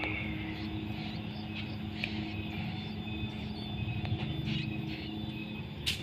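Young prinias (ciblek gunung) giving short, faint chirps at intervals over a steady low rumble, with one sharp click near the end.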